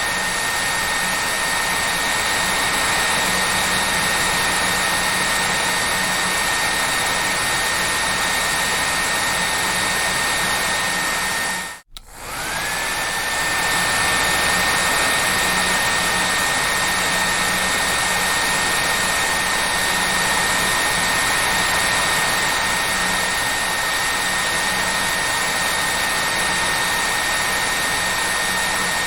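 Hair dryer running steadily: a loud rush of air with a thin, steady whine above it. About twelve seconds in, the sound cuts out for a moment and then comes back, the whine rising back up to pitch as the dryer gets up to speed.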